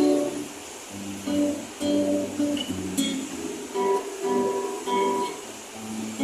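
Acoustic guitar strumming a sequence of chords between sung lines of a song, each chord ringing briefly before the next.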